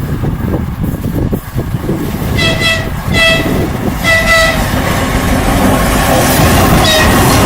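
Three short blasts of a 2TE116 diesel locomotive's horn, about two and a half seconds in, over the rumble of the train. The rumble of the engine and the wheels on the rails grows steadily louder as the train comes closer.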